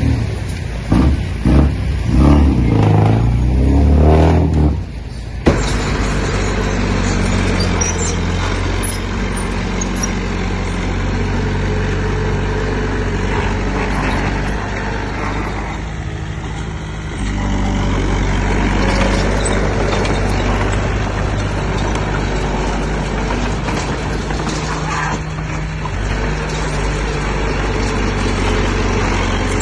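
Diesel engine of heavy construction machinery running, uneven and pulsing for the first few seconds, then an abrupt change about five seconds in to a steadier, continuous engine drone with mechanical noise.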